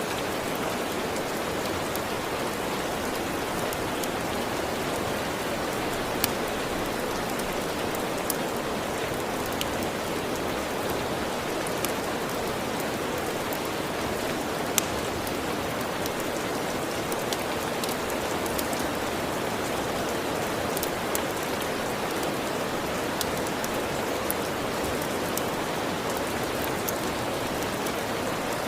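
Steady rain hissing evenly, with a scattering of single sharp crackles from a wood fire in a fireplace, the loudest about halfway through.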